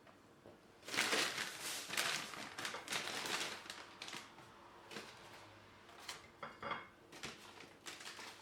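Dishes and cutlery clinking and clattering: a busy run of clatter for a couple of seconds starting about a second in, then a few scattered clinks.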